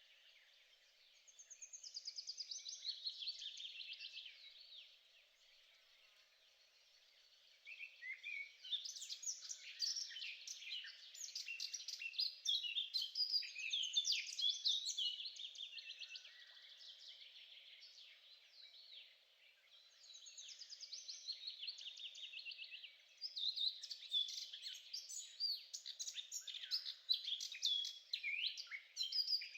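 Songbirds singing in long, rapid, varied phrases of high chirps and trills, with brief pauses about five seconds in and again near twenty seconds.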